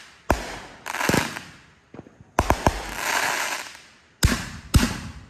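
Consumer fireworks going off: a quick series of sharp bangs, about six in five seconds with a few small pops between them, each trailing off in a fading rush of noise.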